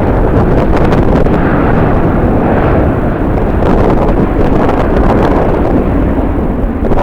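Strong gusting wind buffeting the microphone, over the steady roar of a jet airliner's engines.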